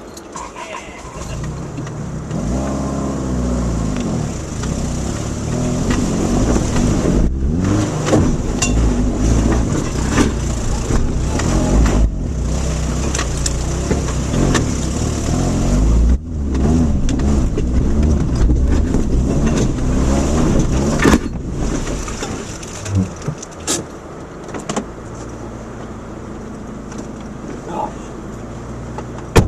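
Subaru Outback's engine revving up and easing off again and again as it is driven over a rough dirt road, with the car knocking and rattling over the bumps. It gets quieter near the end.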